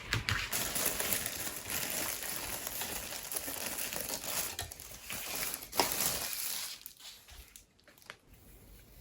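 Plastic packaging crinkling and rustling as it is handled, irregular and crackly, dying down about six seconds in.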